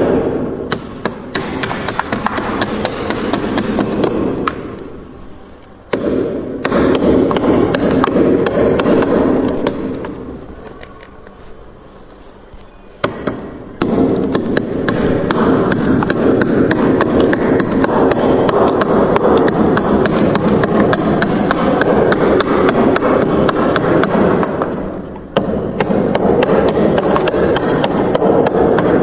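Freezer frost ice crunching in rapid, close strokes. It eases off and pauses briefly three times, then starts again abruptly.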